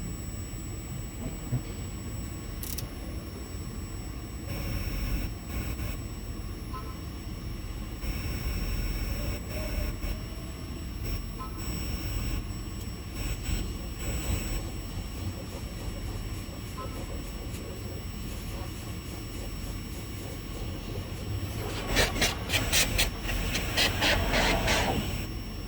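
Semi truck's engine running with a steady low rumble, joined near the end by a few seconds of rapid loud rattling.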